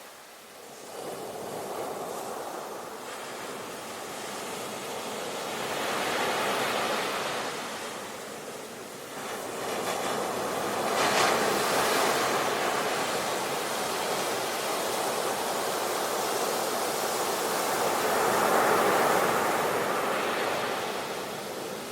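Ocean waves breaking and washing up the shore, swelling and falling back in surges a few seconds apart; the wave about eleven seconds in breaks with the sharpest hiss.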